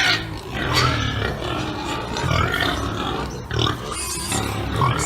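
Pigs grunting and squealing, a continuous run of short calls over low grunting.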